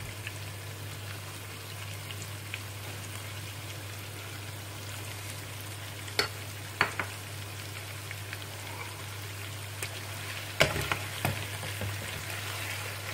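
Chicken sizzling gently in a karahi as cream is poured over it, with a steady low hum underneath. A metal slotted spatula clinks against the pan a few times midway, then scrapes and clinks in a quick cluster near the end as the chicken is stirred.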